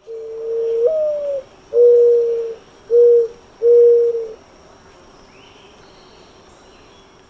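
Mourning dove singing: four low, soft coos, the first rising then sliding down, the next three shorter and steady, all over within about four and a half seconds. Faint higher chirps of another bird follow.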